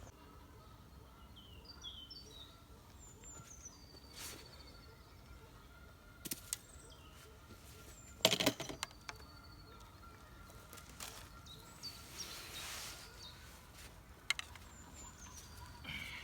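Small birds chirping and singing in short, high calls, with a few sharp knocks, the loudest about halfway through.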